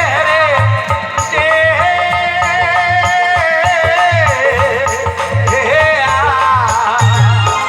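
Rajasthani desi bhajan folk music: a held, ornamented melody line that bends and wavers in pitch over a steady low drum beat.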